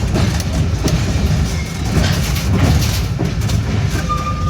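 Train running with a steady low rumble and irregular clacks of the wheels on the track. A short high steady tone sounds near the end.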